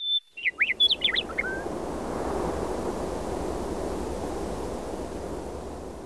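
A bird's quick chirps and whistles in the first second and a half, over a steady outdoor rushing noise with a low rumble that fades out near the end.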